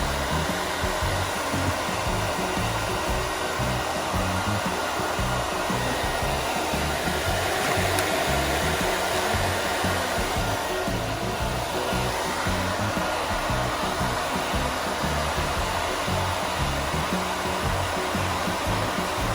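Hair dryer blowing steadily, drying a large dog's thick coat.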